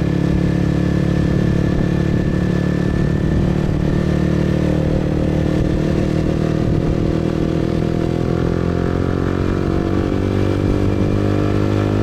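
Motorbike engine running steadily while riding, heard from on the bike, its pitch rising gently over the last few seconds as it speeds up.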